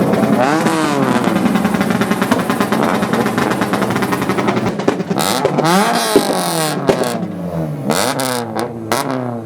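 Car engines revving hard again and again, the pitch sweeping up and down with each rev, with several sharp cracks in the second half.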